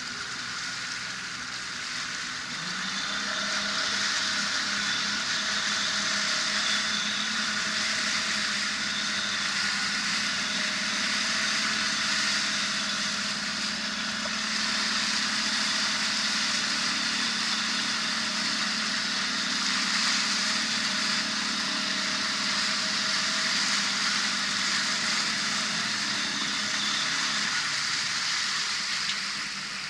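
The MV Tuhoe's motor running steadily under way, with a rushing hiss of water and air over it. The engine hum picks up about two and a half seconds in and holds steady, and the whole sound fades near the end.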